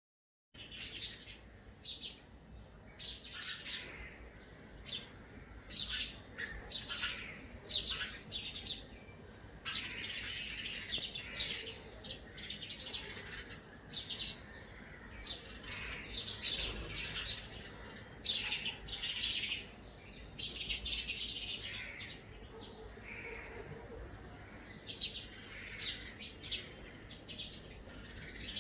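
Small bird chirping: many short, high chirps in quick runs, with brief pauses between them.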